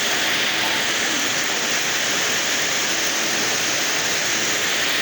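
Heavy rain mixed with hail pouring down steadily, a dense, even hiss.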